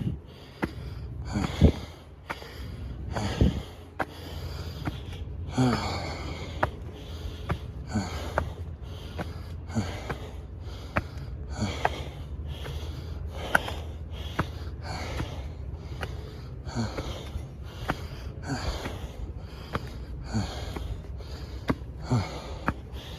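A man breathing hard and rhythmically from the effort of climbing steep steps in the heat, about one loud breath a second.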